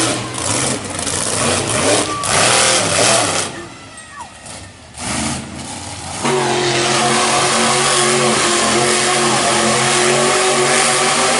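Loud racing vehicle engines at a motorsport event. A rough, noisy stretch gives way to a lull about three and a half seconds in, and from about six seconds in an engine runs with a loud, steady note that shifts slightly in pitch.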